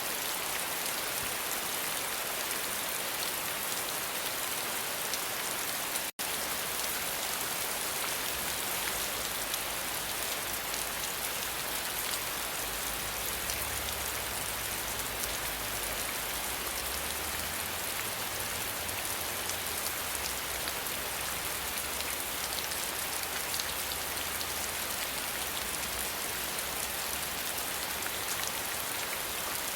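Steady rain falling, a dense even hiss of many small drops. It cuts out completely for an instant about six seconds in.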